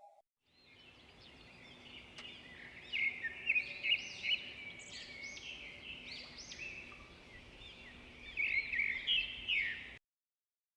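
A bird singing: a varied run of quick high chirps and whistled notes, loudest in two spells, a few seconds in and again near the end, then cutting off abruptly.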